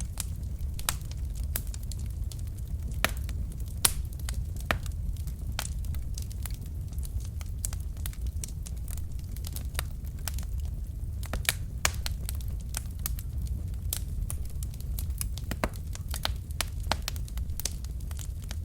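Wood fire burning in a fireplace: logs crackling with sharp, irregular pops, a few louder than the rest, over a steady low rumble of the flames.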